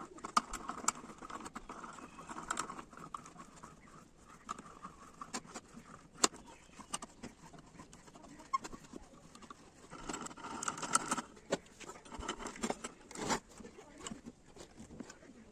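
Irregular light clicks and taps, scattered at uneven intervals, with a busier cluster near the start and another about ten seconds in.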